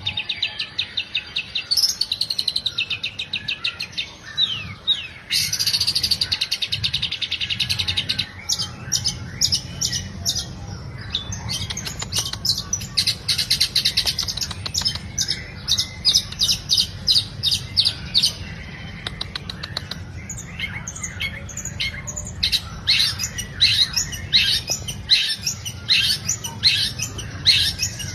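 Long-tailed shrike (cendet) singing energetically: fast chattering trills and quick runs of sharp repeated notes in bursts with short breaks, over a steady low hum.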